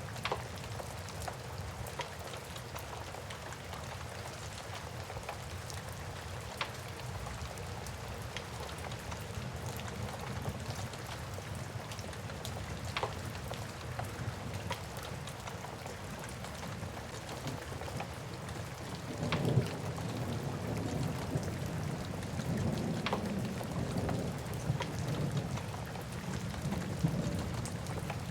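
Steady rain with the sharp pops of a crackling wood fire scattered through it. About two-thirds of the way in, a low rumble of thunder rises and keeps rolling to the end.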